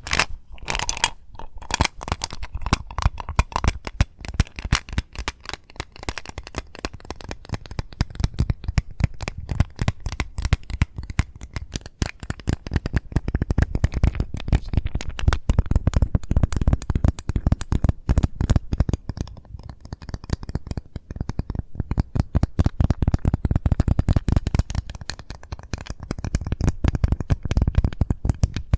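Fast, continuous tapping on an Eclipse mint container, a dense stream of many small clicks a second.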